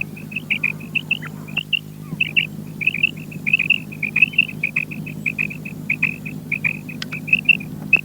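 Quail calling: a fast run of short, clipped, high notes, about four or five a second, over a steady low hum.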